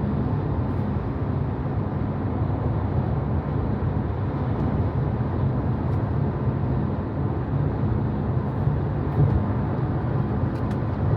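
Steady road and tyre noise heard inside the cabin of a Tesla Model Y electric car while it drives, a low, even rumble with no engine sound.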